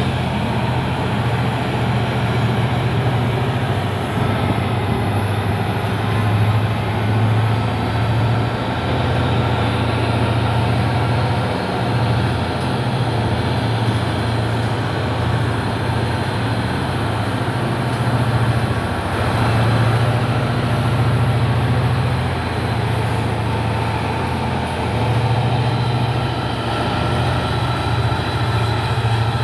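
Locomotive under power, hauling a loaded coal freight train as it works to get moving on a gradient: a steady low drone that swells and dips every few seconds.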